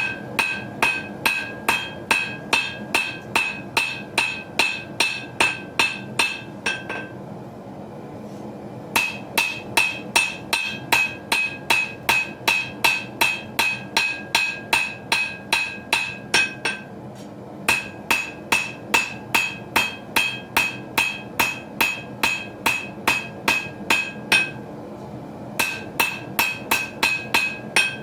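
Hammer blows on an anvil forging a small knife blade, an even run of about two and a half ringing strikes a second. The strikes stop for about two seconds a quarter of the way in, and briefly twice more later.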